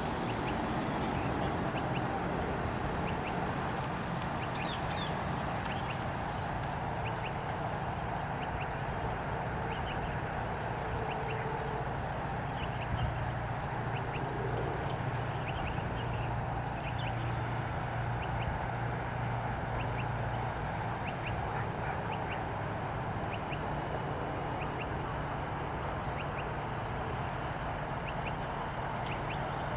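Steady distant rumble of a departing Boeing 747's jet engines, with short bird calls repeating over it.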